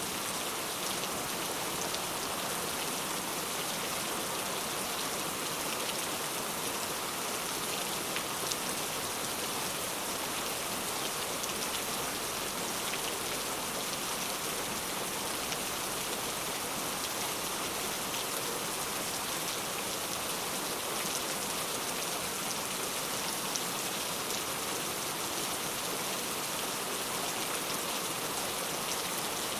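Heavy rain falling steadily, a dense even hiss of drops on hard surfaces with scattered individual drop ticks.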